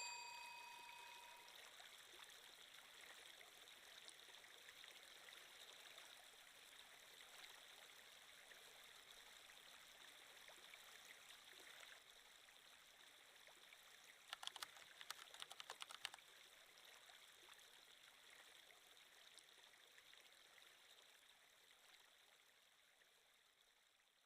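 Faint, steady flowing-water sound effect like a gently running stream, with a chime dying away at the start and a quick run of sharp clicks about fifteen seconds in. The water fades out near the end.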